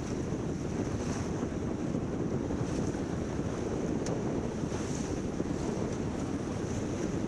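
Wind buffeting the microphone aboard a sailboat under way, over the rush of water along the hull, with a sharp click about four seconds in.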